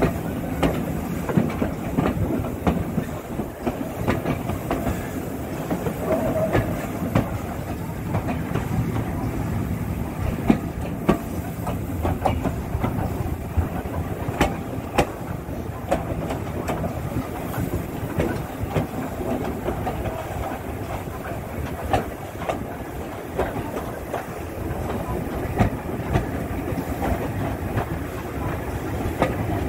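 Steam-hauled railway carriage running along the track, heard from on board: a steady rumble of wheels on rails with irregular clicks and knocks over rail joints and pointwork.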